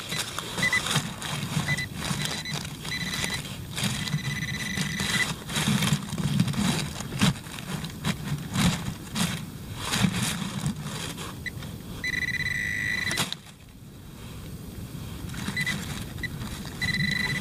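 Digging and scraping in soil with a hand digging tool, broken up by a White's TRX pinpointer sounding a steady high tone in short and longer bursts as it is probed near the buried target; the longest tone comes about twelve seconds in.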